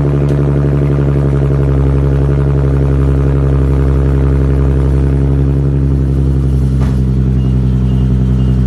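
Nissan 370Z Nismo's 3.7-litre V6 idling steadily after a cold start, an even, unchanging drone with no revs.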